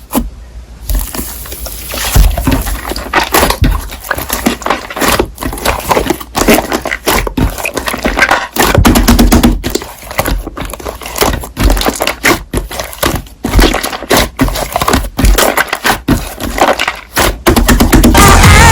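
Slime being squished and pressed by hand, giving a fast, irregular run of sharp clicks and crackling pops.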